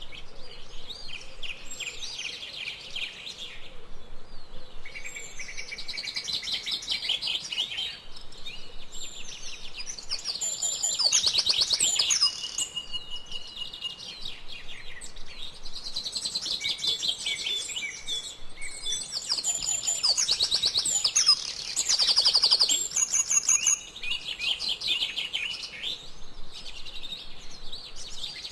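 Several songbirds chirping and singing at once: quick repeated chirps, rapid trills and whistled notes, with louder bursts of song about eleven seconds in and again around twenty to twenty-three seconds.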